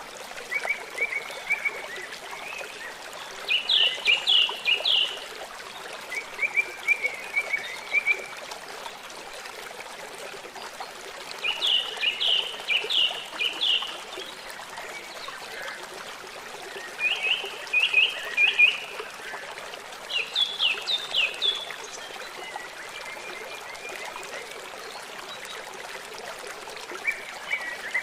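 A river's steady rushing water, with a songbird singing short phrases of several quick, falling notes every few seconds, and fainter, lower trills between them.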